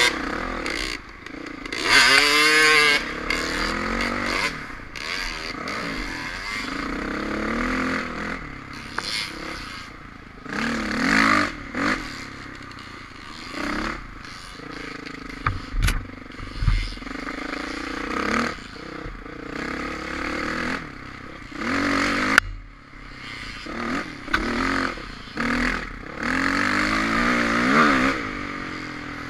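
Dirt bike engine revving up and down again and again, the loudest rev about two seconds in, with a few sharp knocks in between.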